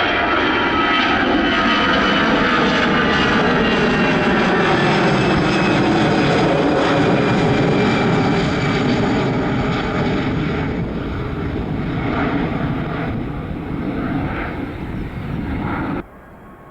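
Airliner's engines passing close by, a loud roar with whining tones that fall in pitch over the first several seconds as it goes past, then easing off; the sound cuts off abruptly near the end.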